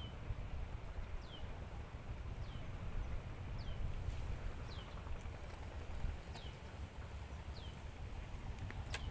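A bird calling over and over, each call a short falling whistle, about once a second, over a low rumble; a sharp click near the end.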